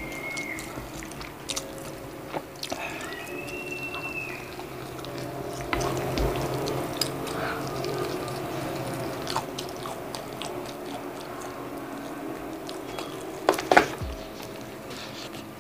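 Close-miked biting and wet chewing of sauce-coated fried chicken, with sticky mouth clicks and a few louder smacks near the end, over soft steady background music.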